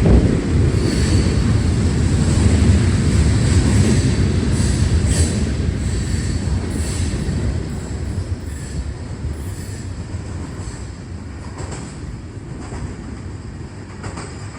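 Freight train rolling past, a heavy low rumble with a thin high squeal of wheels on rail and scattered clanks, fading steadily over the second half as it moves away.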